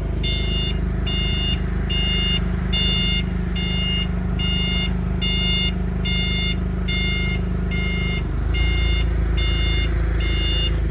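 Vehicle backup alarm beeping steadily at about one and a half beeps a second while the vehicle reverses, over a running engine whose note changes about eight seconds in.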